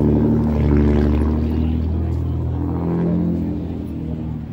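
A car engine running at idle, a steady low hum whose pitch shifts slightly partway through.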